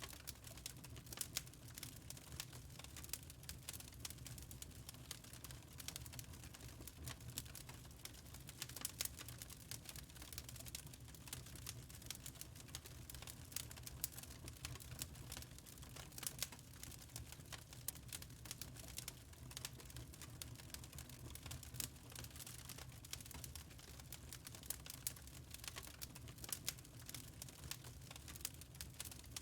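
Wood fire crackling in a fireplace: quiet, irregular small pops and snaps over a low steady rumble.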